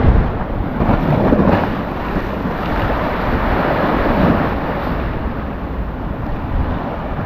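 Sea waves breaking and washing up the beach, with wind buffeting the microphone as a heavy low rumble. The surf swells a few times, about a second in and again about four seconds in.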